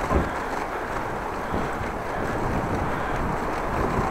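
Wind buffeting the microphone while cycling, a steady low rumble of wind noise.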